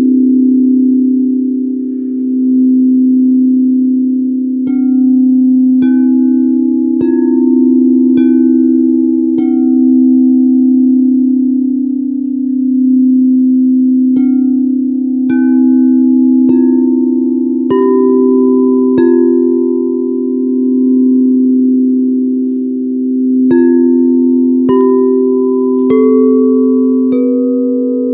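Singing bowls ringing over a steady low drone, with three runs of five struck notes, each run stepping upward in pitch at about one strike a second, and each note ringing on until the next.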